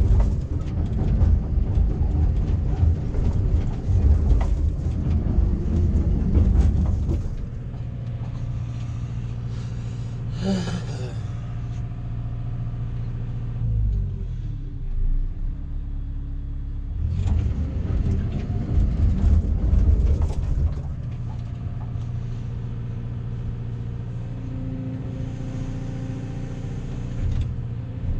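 Backhoe's diesel engine running, revving up under load for several seconds at the start and again about two-thirds of the way through, and dropping back to a lower steady run in between. A brief higher-pitched sound comes about ten seconds in.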